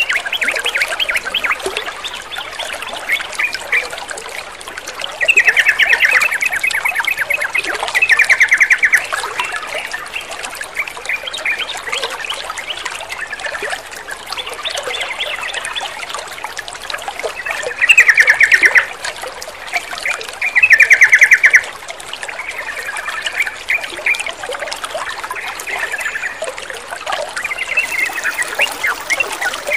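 Sooty-headed bulbuls (trucukan) chirping and chattering over a steady trickle of running water. Four louder rattling bursts of about a second each stand out, two in the first third and two past the middle.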